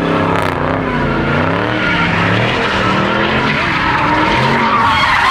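A car engine revving up and down over and over while its tires squeal and skid on pavement, as in a burnout or donut; the squeal gets louder near the end.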